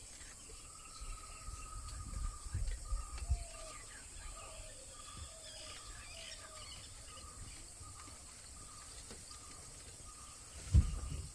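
Forest ambience: birds calling, with a short run of falling notes in the middle, over a steady high hiss of insects. Low bumps a couple of seconds in and a sharp thump near the end.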